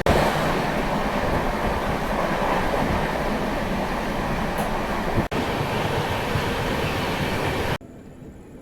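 A moving passenger train, the Hirakhand Express, heard from inside the coach: a steady running noise of wheels and carriage. Near the end it cuts off abruptly to a much quieter background.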